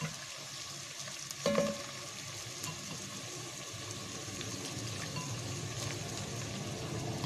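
Wet, soaked chana daal sizzling steadily in hot oil and spice masala in a pan on a low flame, the frying slowly growing a little louder. A single knock rings out about a second and a half in.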